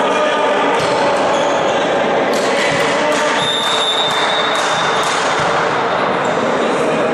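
Indoor sports-hall ambience during a match: a ball bouncing on the court amid the steady noise of spectators, with a steady high tone lasting about a second and a half a little past the middle.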